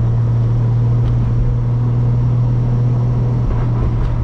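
Turbocharged 2JZ straight-six of a MK4 Toyota Supra droning at steady revs while cruising, one constant low engine note that neither rises nor falls.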